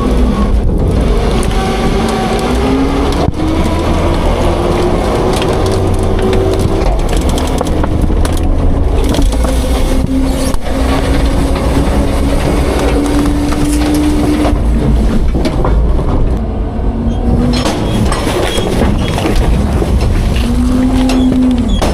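Autocar-Heil Freedom half-pack front-load garbage truck compacting garbage: the engine runs up to drive the packer hydraulics, with a steady drone whose pitch steps up and down, and scattered knocks as the trash is crushed.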